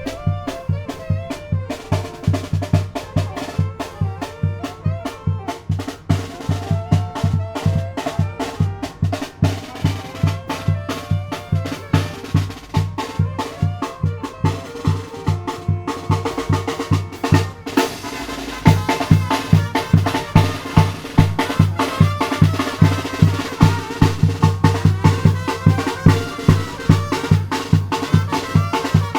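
Tamborazo band playing: the tambora bass drum and snare keep a steady beat under a brass melody. About two-thirds of the way through, the low drum beat drops out for a moment, then comes back louder.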